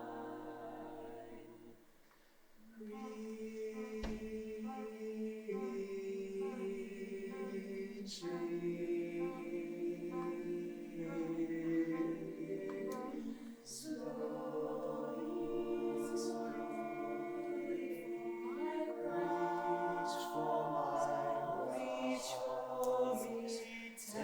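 Choir singing a cappella in held, layered chords that shift from note to note, with a brief dip about two seconds in before the voices re-enter. A single low knock sounds about four seconds in.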